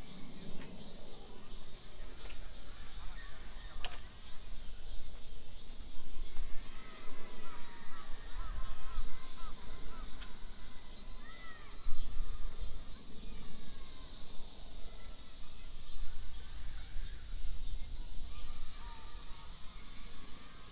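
Outdoor park ambience: birds calling with short chirps scattered throughout, over a high pulsing that repeats evenly about one and a half times a second and an uneven low rumble.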